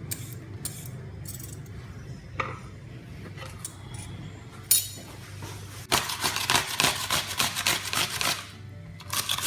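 A cucumber being rubbed up and down a coarse metal grater, a rapid run of scraping strokes about five a second starting about six seconds in. Before that come a few light clicks and knocks of handling utensils.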